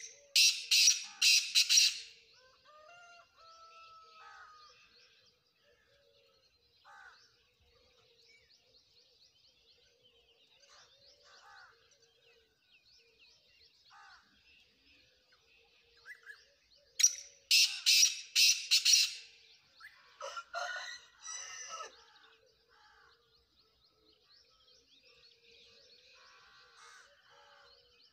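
Black francolin calling twice, about 17 s apart. Each call is a loud, harsh run of about five notes lasting about two seconds. Fainter chirps of other birds come between the calls.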